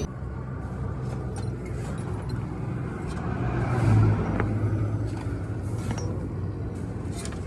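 Low motor-vehicle rumble that swells about four seconds in, with a few light clicks scattered through.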